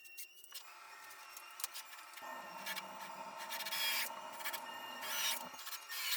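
A few short rasping scrapes, like a tool worked against wood, over quiet background music with steady held tones.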